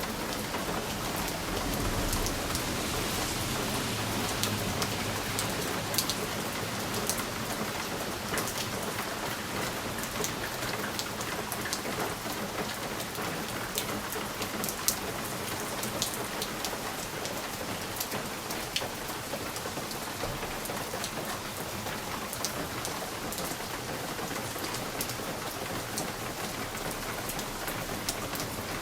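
Steady rain pattering on a window, with individual drops ticking sharply against the glass over a continuous hiss of rainfall. A slightly fuller low rumble swells in the first few seconds.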